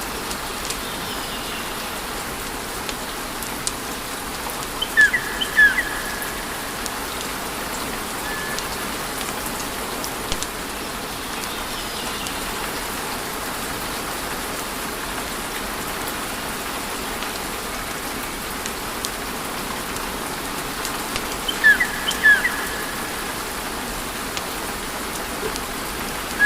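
Wood fire crackling in a fireplace: a steady hiss with scattered small pops. Twice, about five seconds in and again near the end, a brief cluster of high chirps rises above the hiss.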